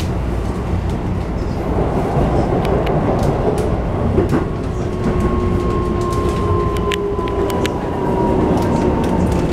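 Keikyu New 1000 series train running, heard from inside the car: steady rumble of wheels on rail with scattered sharp clicks from rail joints. From about halfway in, the Toyo IGBT-VVVF inverter adds a thin whine that slowly falls in pitch as the train slows for the station.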